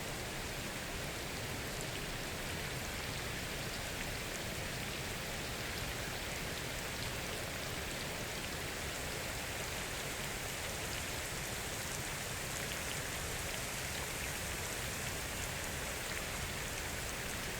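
Steady rain falling on forest foliage: an even hiss with scattered fine drop ticks.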